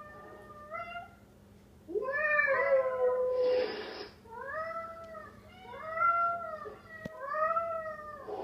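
Recorded cat meows played back: a string of about five or six calls, each rising and falling in pitch, the longest and loudest about two seconds in, with a short noisy burst about three and a half seconds in.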